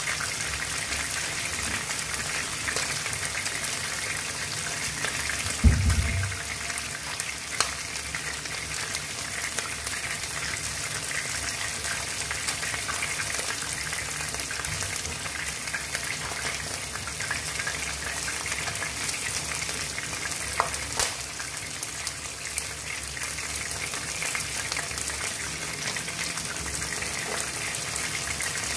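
Chicken wings shallow-frying in hot oil in a wok: a steady sizzle with scattered crackles and pops. A short low thump about six seconds in.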